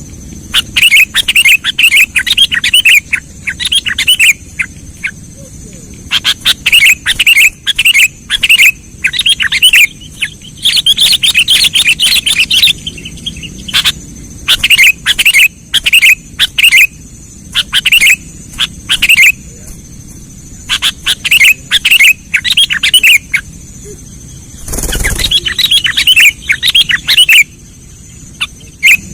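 Sooty-headed bulbul (kutilang) calls used as a bird-luring sound: loud runs of quick chirping notes, repeated phrase after phrase with short pauses between them.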